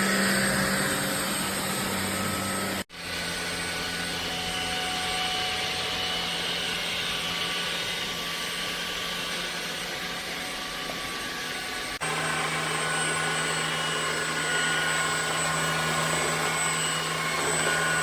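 Ultenic U16 Flex cordless stick vacuum running with a steady motor whine and hum. It breaks off abruptly about three seconds in and resumes, and at about twelve seconds it changes suddenly to a lower hum.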